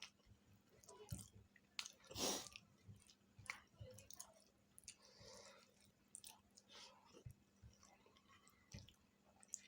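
Close-up wet chewing and mouth smacking from eating chicken feet in curry gravy, with irregular small clicks throughout. One louder noisy burst comes about two seconds in.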